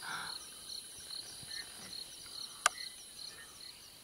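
Night chorus of calling frogs and insects: a high chirp repeating about three times a second over a steady high whine. A single sharp click about two-thirds of the way through is the loudest sound.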